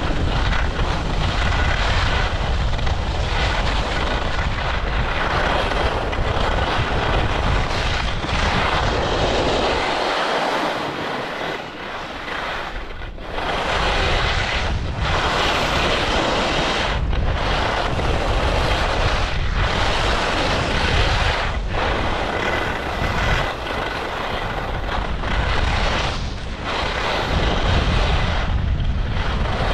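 Ski edges scraping steadily across firm race-course snow while side-slipping, the scrape breaking off briefly several times, with wind rumbling on the microphone.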